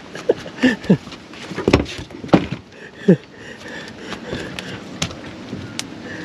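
A freshly landed whiting thrashing about, making a scattered run of sharp knocks and thumps.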